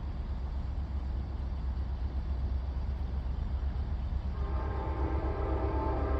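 A steady low rumble, then about four seconds in a passenger train's horn sounds, a chord of several tones held on.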